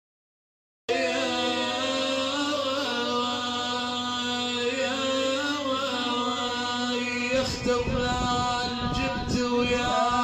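A man chanting a Shia mourning lament for Imam Hussein in long, drawn-out, wavering held notes. The sound cuts out for about the first second. Irregular thumps join in from about seven seconds in.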